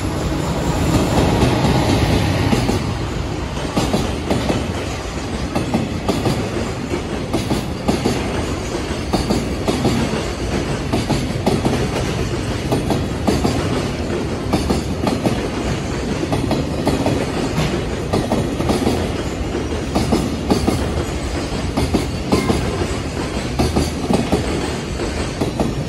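A freight train passing close by at speed: the EF210 electric locomotive goes by first, loudest a second or two in, then a long string of container wagons follows. The wagons' wheels click steadily over the rail joints.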